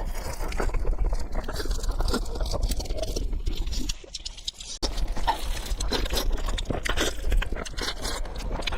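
A person chewing food close to the microphone: a dense run of quick wet mouth clicks and smacks, which eases briefly about four seconds in before picking up again.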